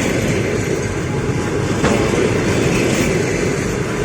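Passenger coaches of an arriving train rolling past on the rails: steady wheel-on-rail noise, with a single sharp click about two seconds in.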